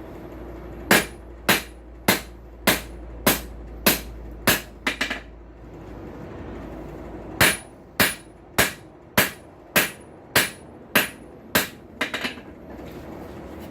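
Blacksmith's hand hammer striking hot steel on an anvil, drawing out a tong blank. There are two runs of evenly spaced blows, a little under two a second, with a pause of about two seconds between them. Each run ends in a couple of quick taps.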